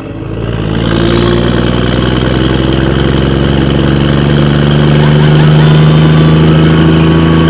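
Vehicle engine running steadily with a deep, even hum, its pitch edging slightly upward.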